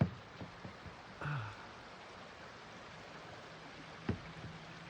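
Quiet outdoor background hiss. About a second in comes a brief low hum or sigh from a person, falling in pitch, and near the end a single faint tap.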